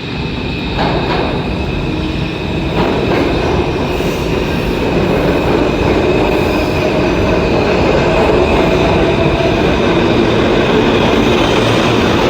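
New York City subway train running through the station, its rumble building over the first few seconds and then holding loud and steady, with steady high-pitched tones over the wheel and rail noise.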